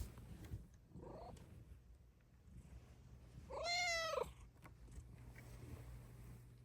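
Bengal cat giving one clear, high meow about three and a half seconds in that rises and then falls in pitch, after a short faint chirp about a second in.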